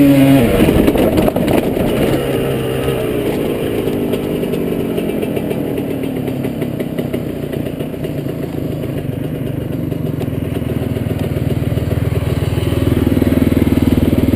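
Dirt bike engine under way on a trail: the revs drop just after the start and it runs off the throttle for several seconds, then picks up and grows louder again near the end, with some clatter from the bike over rough ground.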